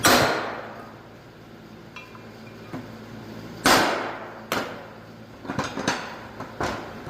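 Hammer blows on a steel punch, driving bearing races out of a Toyota differential housing. There are about six sharp metal strikes at uneven intervals, each with a ringing tail; the first and one about three and a half seconds in are the loudest.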